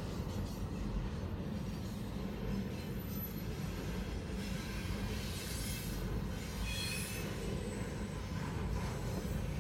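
Double-stack intermodal freight cars rolling past at a grade crossing: a steady low rumble of wheels and cars, with faint high wheel squeals about five to seven seconds in.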